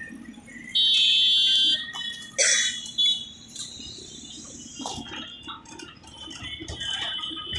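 A vehicle horn sounds once, a loud, high-pitched steady blast about a second long, followed by two shorter noisy blasts, over the low rumble of road traffic.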